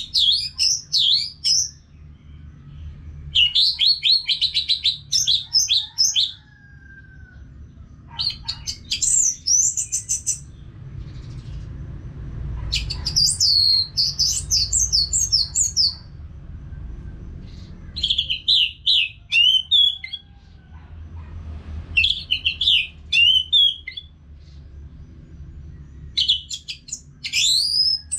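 Orange-headed thrush singing a run of loud phrases of rapid, varied high whistles, a new phrase every four seconds or so, over a faint low rumble.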